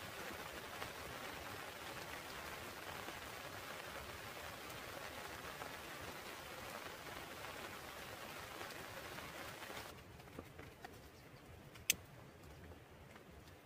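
Steady rain pattering on foliage, cutting off suddenly about ten seconds in. A single sharp click follows near the end.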